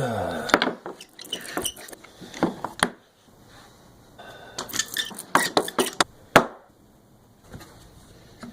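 Sharp clinks and knocks of hard objects being handled and set down, in two busy clusters about three seconds apart, the later one ending with one loud knock.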